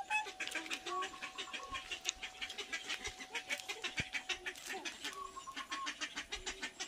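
Birds calling, with fast, evenly repeated high chirps and some lower calls. A steady held tone runs beneath them and stops about four and a half seconds in.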